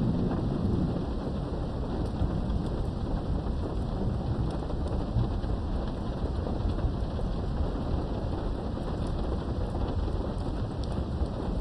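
Steady heavy rain with low rolling thunder, heard from indoors behind a window. The thunder rumble is strongest in about the first second and a half, then settles under the constant hiss of the rain, with scattered drop ticks.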